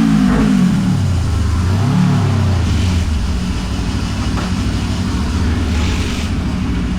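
2014 Kawasaki ER-6N's 650 cc parallel-twin with a gutted exhaust, on a dyno, at the end of a full-throttle pull: the throttle closes and the revs fall away, a short blip comes about two seconds in, then it settles to a steady idle.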